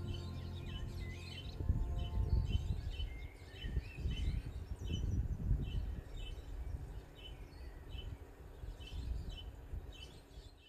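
Birds chirping, one repeating a short high chirp about twice a second amid other twittering, over a low rumbling background that is loudest in the first half. Music fades out about a second in.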